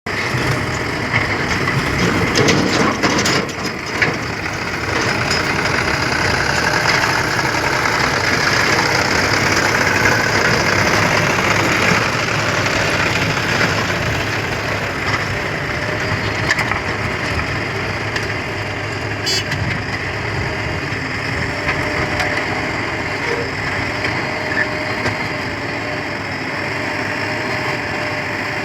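A JCB 3DX backhoe loader working mud: the diesel engine runs loud under load along with rough noisy digging and loading of earth. A few sharp knocks come about two to four seconds in.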